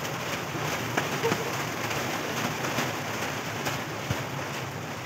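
Water splashing and spattering as several people thrash and throw water about in a small concrete pool: a dense, continuous spatter with a few sharper splashes.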